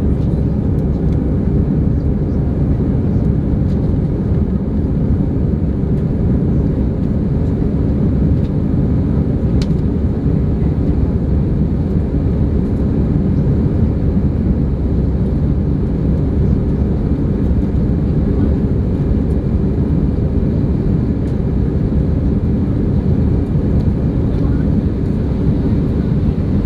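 Airbus A318 jet engines and airflow heard from inside the passenger cabin: a loud, steady low roar that holds constant, typical of the climb after takeoff.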